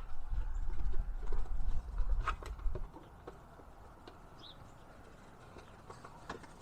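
A dog playing with a basketball: scattered knocks and clicks over a low rumble for about the first three seconds, then only a few faint clicks.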